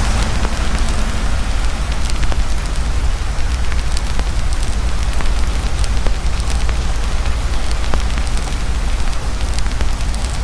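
Heavy rain pouring steadily with a campfire crackling through it: frequent sharp pops and snaps from the burning wood over a dense hiss of rain, with a deep steady rumble underneath.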